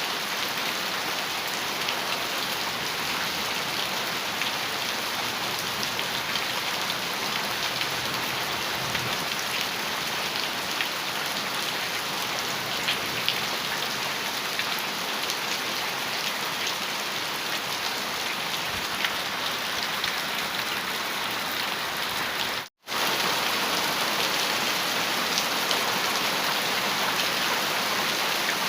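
Heavy rain falling steadily on a metal roof, an even hiss with many small drop ticks. About three-quarters of the way through it cuts out for an instant and comes back slightly louder.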